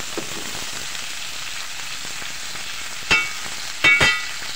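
Chicken feet sizzling in a metal pot as they are sautéed and stirred with a metal spoon. The spoon clanks against the pot about three seconds in and twice more, in quick succession, near the end.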